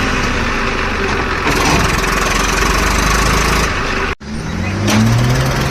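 Heavy diesel engine running steadily; after a brief cut about four seconds in, an engine speeds up with a rising pitch and holds at a higher speed.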